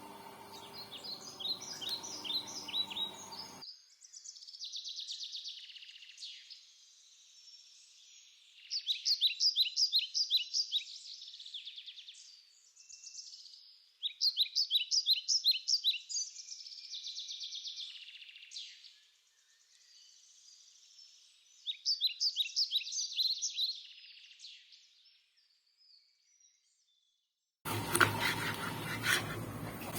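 A songbird singing: phrases of quick, high repeated notes, each lasting two to three seconds and separated by short pauses. About two and a half seconds before the end a louder scraping noise starts abruptly.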